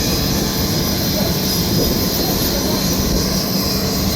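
Steady aircraft engine noise at an even level, with a constant low hum and a high whine running through it.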